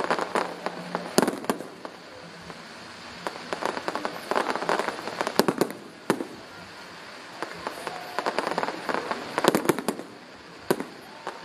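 Aerial fireworks display: gold shells bursting in the sky, heard as clusters of rapid popping crackle in three waves, with a single sharp bang about six seconds in and another near the end.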